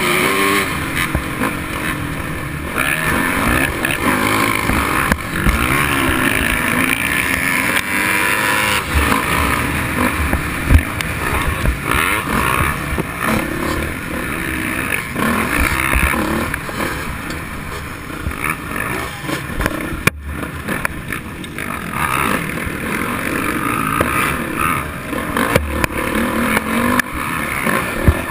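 Motocross dirt bike engine running and revving, its pitch rising and falling again and again as the throttle opens and closes, with frequent short knocks and bumps.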